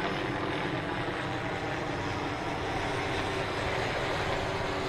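Steady helicopter rotor and engine noise, with a fast even flutter at the bottom and a constant drone.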